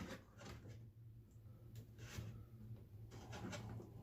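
Near-quiet room tone with a steady low hum and a few faint scattered ticks and scrapes.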